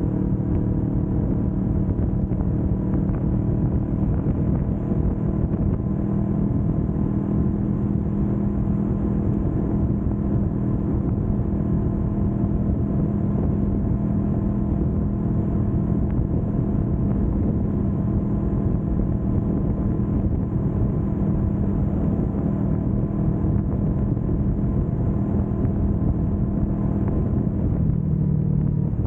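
Kawasaki Vulcan S 650's parallel-twin engine running at a steady highway cruise, holding an even pitch with a slight shift in tone near the end.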